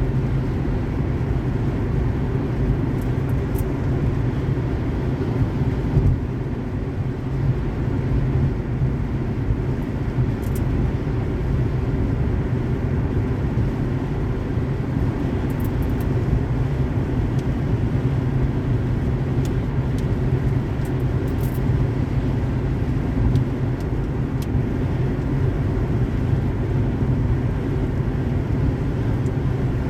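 Steady road and engine noise of a car driving on a highway, a low, even rumble with a few faint ticks scattered through it.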